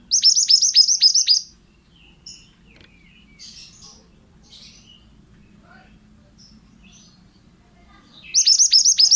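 A male mantenan (pied bushchat) singing: a rapid burst of about seven sharp, high notes, each sweeping steeply downward, lasting just over a second, then faint scattered chirps, and the same quick burst again near the end.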